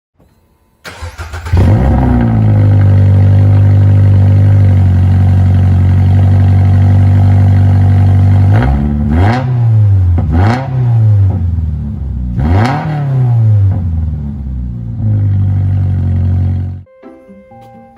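Toyota GR86's 2.4-litre flat-four engine starting through a Fujitsubo A-RM single-exit muffler: it cranks and catches about a second in, then idles steadily. It is revved three times in quick blips, settles back to idle, and is switched off near the end.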